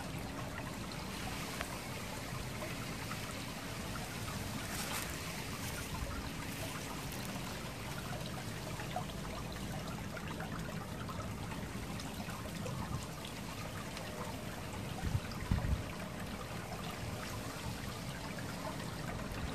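Water trickling steadily into a garden fish pond, with a few low bumps about fifteen seconds in.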